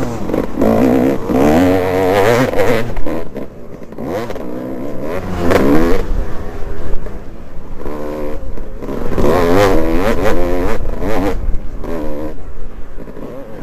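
Dirt bike engine heard from onboard at racing speed. The revs climb and fall again and again as the throttle is worked, and the engine eases off briefly about three seconds in and again near the end.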